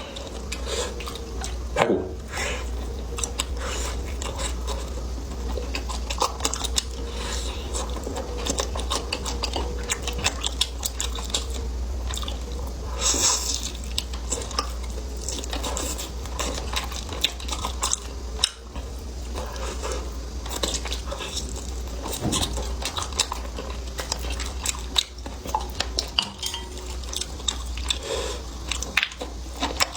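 Eating at the table: utensils clicking and tapping against dishes again and again, with chewing, over a steady low hum.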